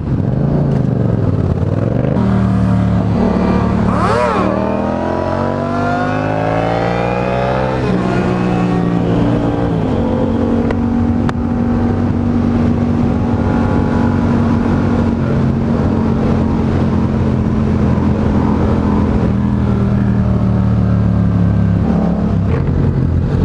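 Motorcycle engine under way: the revs climb steadily as it accelerates, drop at a gear change about eight seconds in, then hold steady at cruising speed, falling again near the end.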